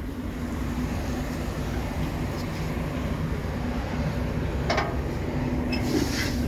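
Truck's diesel engine idling: a steady low rumble with an even hum. A couple of brief faint ticks come in about five and six seconds in.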